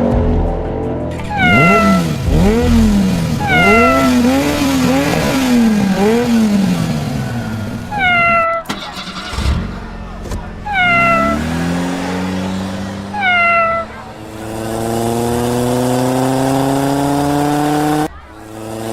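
A cat meowing about five times, each meow falling in pitch, over a tone that wavers up and down. In the second half a drone that keeps rising in pitch, like an engine revving, builds for several seconds and cuts off suddenly near the end.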